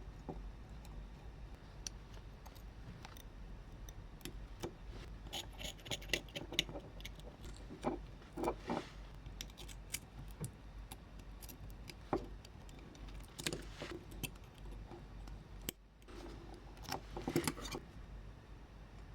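Small metal parts being handled: scattered light clicks and clinks, with busier clusters about six, eight to nine, thirteen and seventeen seconds in, over a steady low hum.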